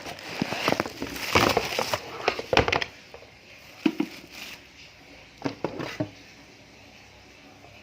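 Packaging being handled: rustling, crackling and crinkling for about the first three seconds, then a few separate knocks and clatters, the last of them about six seconds in.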